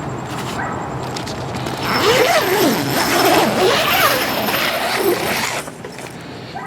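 Tent zipper being pulled along the fabric for about four seconds, starting about two seconds in, likely opening a flap of the truck tent.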